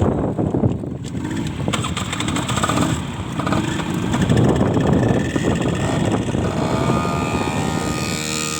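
Vehicle engine running on the move, with wind rushing over the microphone; the engine's steady note comes through more clearly near the end.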